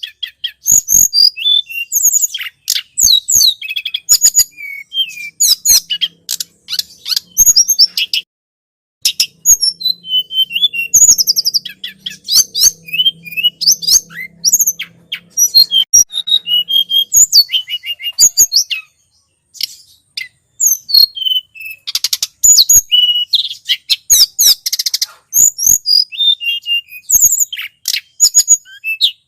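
Tledekan gunung, a small flowerpecker, calling in a bird-lure recording: rapid bursts of thin, high-pitched chirps and short trills, broken by brief pauses.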